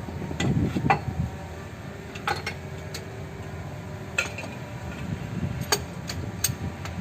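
Metal hand tools and parts clinking and tapping against metal, about seven scattered sharp clinks with a low rumble underneath.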